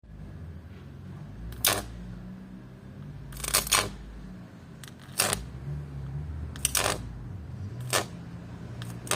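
A single microwave-oven transformer (MOT) buzzing with a steady mains hum, broken about five times by sharp high-voltage arcs crackling across its output.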